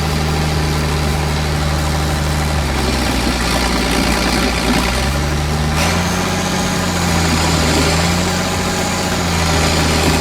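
Old International Harvester tractor engine running hard while pulling a stump. Its note sags about three seconds in and climbs back up a few seconds later as the load changes.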